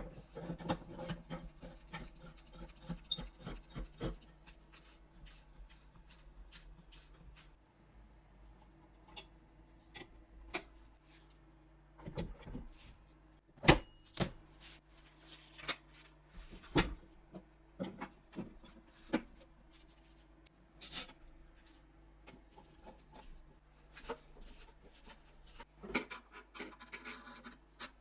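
Irregular small clicks, taps and knocks with soft rubbing in between as hands work the Mauser K98's metal and wooden parts, with two sharper knocks about 14 and 17 seconds in.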